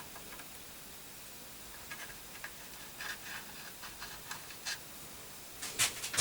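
Faint scattered clicks and scratches over a low hiss, with a louder scrape a little before the end.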